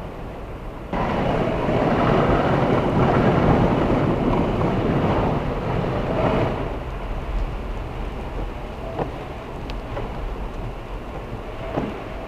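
Car driving through heavy rain and floodwater, heard inside the cabin from the dashcam: a steady rush of water and road noise that rises suddenly about a second in and eases after about six seconds.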